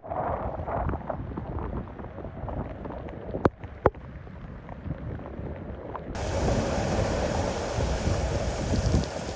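Hurricane-force wind gusting across the microphone, mixed with rough surf. Two sharp clicks come about three and a half seconds in, and the wind noise grows louder and denser from about six seconds in.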